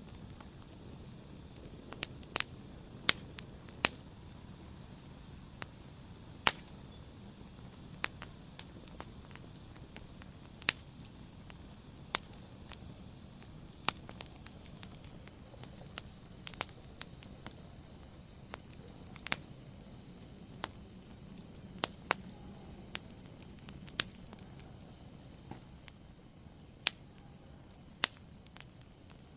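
Wood fire burning in a fireplace: irregular sharp crackles and pops every second or so over a soft steady hiss of the flames.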